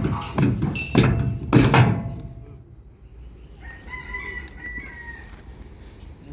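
A quick run of heavy knocks in the first two seconds, then a rooster crowing faintly, one wavering call about four seconds in.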